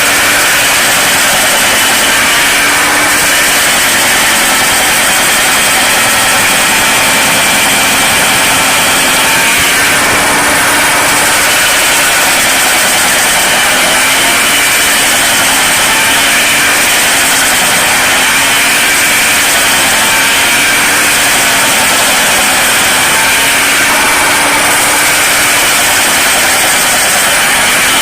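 Diesel engine of a John Deere 5225 tractor running hard to drive a large PTO stump grinder, with a steady high whine from the grinder drive. In the second half the engine pitch dips and recovers every second or two: the tractor is underpowered for this grinder.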